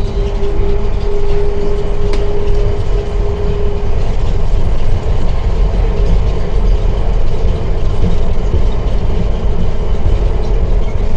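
Underground airport people-mover train running, a loud steady rumble with a steady hum on top that fades about four seconds in.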